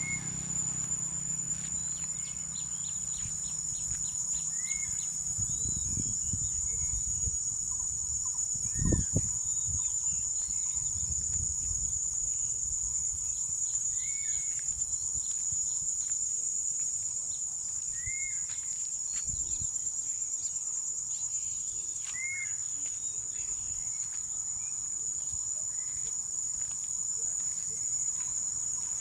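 Insects chirring in a steady high-pitched drone, while a bird gives short arched chirps every few seconds. A dull low thump comes about nine seconds in.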